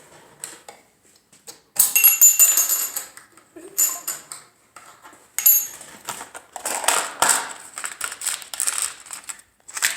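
Small metal parts of a leather patch sewing machine's bobbin area clinking and scraping as its slide plate and bobbin parts are handled. The loudest clink rings out about two seconds in, and a run of lighter clatter follows.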